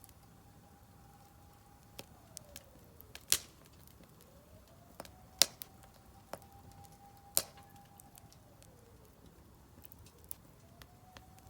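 Wood fire burning in a Solo Stove Campfire fire pit, crackling with scattered small snaps and three loud pops spaced about two seconds apart. A faint high tone rises, holds for a few seconds and falls away, twice.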